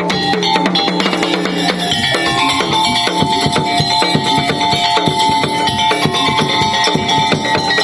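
Madurese tong-tong (daul) ensemble playing: dense, fast drum and percussion strikes under a held melodic line. The low sustained tone of the opening couple of seconds drops out, and the drumming carries on.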